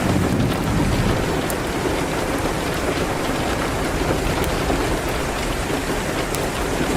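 Steady rain hitting a window, mixed with a few faint sharp crackles from a wood fire.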